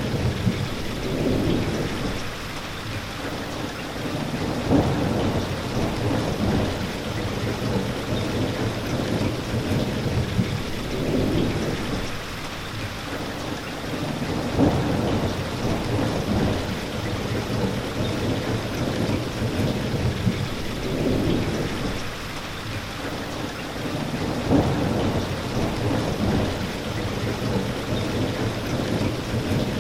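Steady heavy rainfall, a continuous even hiss, with low rumbling swells that rise and fade every five or six seconds.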